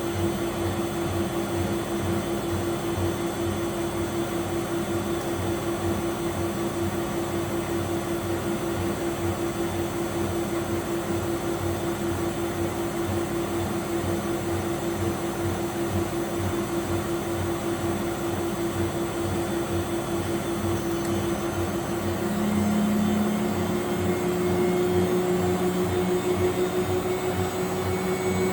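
Miele W761 front-loading washing machine spinning, its motor running with a steady hum and a low rhythmic pulsing from the drum; about 22 seconds in the motor speeds up and the hum rises in pitch. The motor bearings are noisy, which the owner calls "extravagant".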